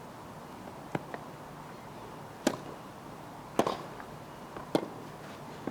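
Tennis rally: a tennis ball struck by rackets back and forth, sharp pops about once a second, with a quieter ball bounce.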